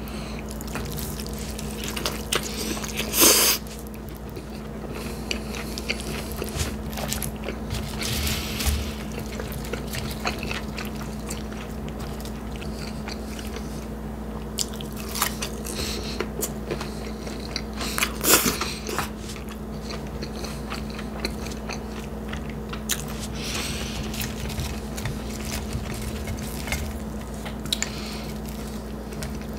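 Close-miked eating of a bacon cheeseburger and fries: steady chewing with small wet clicks, and two louder crunching bites, about three seconds in and about eighteen seconds in. A steady low hum runs underneath.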